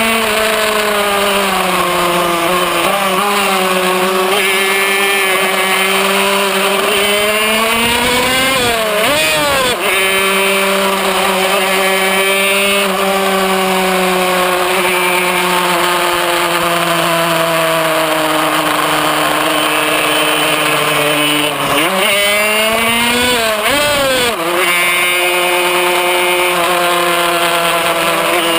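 Kreidler Van Veen 50cc two-stroke racing engine running hard at high revs. Its pitch drops and swoops quickly about nine seconds in, and again several times from about twenty-two seconds, as the six-speed gearbox is shifted.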